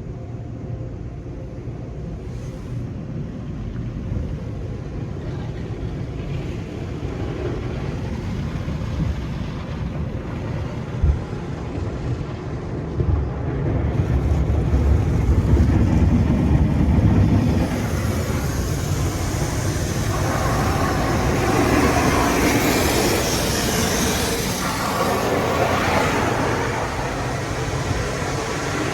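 Automatic car wash working over a truck: a low mechanical rumble that builds, with a single knock about eleven seconds in, then from about twenty seconds in a dense hiss of water spray washing over the vehicle in waves.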